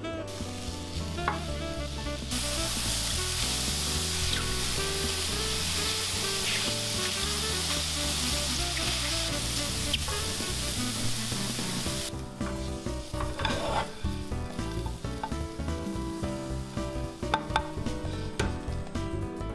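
Food frying in oil in a frying pan: a steady sizzle that starts about two seconds in and cuts off about twelve seconds in, followed by a few sharp clicks.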